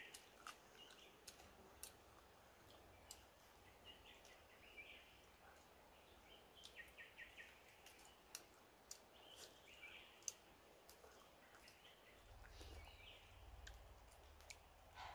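Quiet forest ambience: faint short trilled bird chirps every few seconds, with scattered light clicks and a low rumble near the end.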